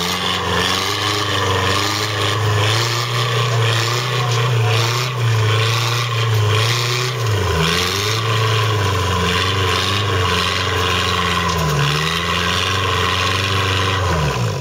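Off-road trial 4x4's engine running at steady revs under load, dipping and picking back up twice, then dropping sharply near the end.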